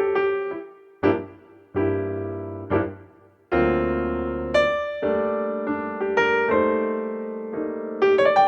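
Background piano music: slow, soft chords and single notes, each struck and left to fade.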